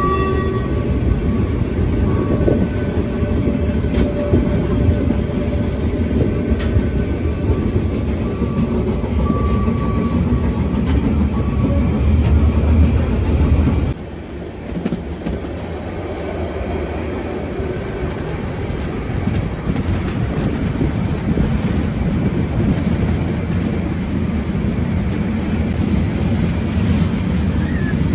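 Harz narrow-gauge steam train running on the rails with a steady low rumble and some clickety-clack; the level drops abruptly about halfway through and the rumble carries on more quietly.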